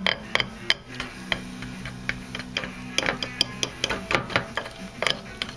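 A utensil stirring pancake batter in a bowl, clicking against the bowl's side in an uneven run of about three to four taps a second.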